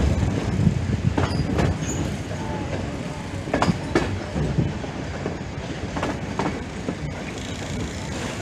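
Passenger train running, heard from an open window of a moving carriage: a steady rumble of wheels on rails, broken by irregular clicks and clacks as the wheels pass over rail joints.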